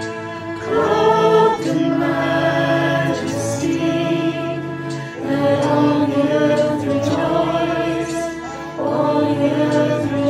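Choir singing a slow hymn or worship song with instrumental accompaniment, phrases swelling in and easing off about every few seconds.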